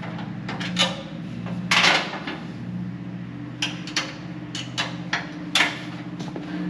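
Irregular metallic clinks and knocks from a bolt being tried in steel seat-mount hardware, about eight sharp taps with the loudest about two seconds in. A steady low hum runs underneath.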